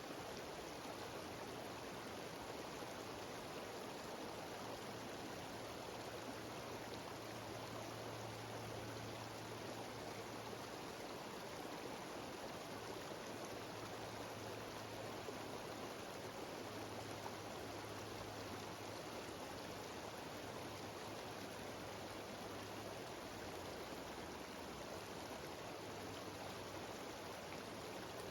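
Mountain stream cascading over rocks in a small waterfall: a steady rush of water without a break.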